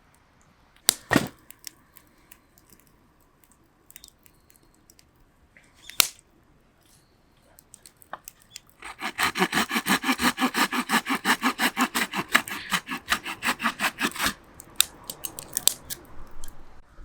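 Two sharp knocks, then fast, even rasping strokes, about eight a second, for about five seconds.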